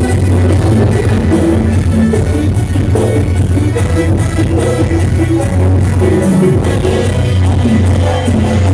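Loud live jaranan dance music, with a steady heavy bass under a melody that moves in short notes.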